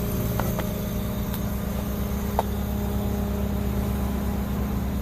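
York heat pump outdoor unit running steadily with a constant low hum, its compressor and condenser fan having just started after the 5-minute compressor delay on a newly replaced contactor. A few faint ticks sound over the hum.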